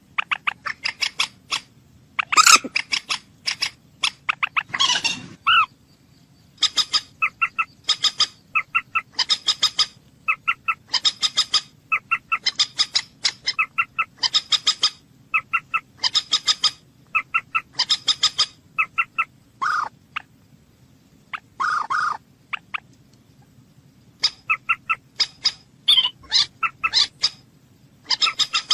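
A bird calling with short, sharp, pitched notes given in quick runs of several at a time, one run after another, over a low steady background hum.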